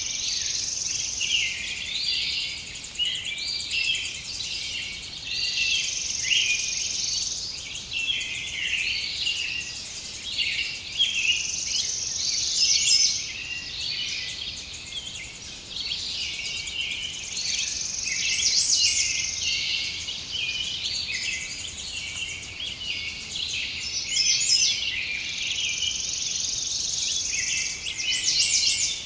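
A dense chorus of many small songbirds chirping and trilling over one another without a break, all high-pitched, with now and then a steady high buzzing trill among them.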